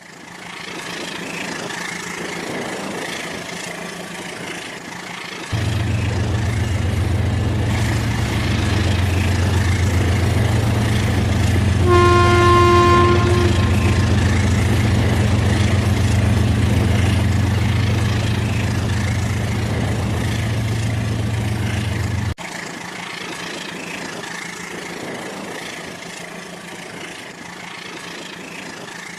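Battery-powered Rail King toy train running on its track, a steady motor and wheel noise with a low hum that comes in about five seconds in and stops abruptly about seven seconds before the end. About halfway through, the train's electronic horn sounds once for about a second and a half.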